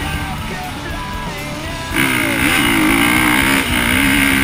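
KTM 350 XC-F's single-cylinder four-stroke engine running under the rider, heard from on the bike. It eases off for the first couple of seconds, then revs up louder about two seconds in, its pitch dipping and climbing again as the throttle is worked.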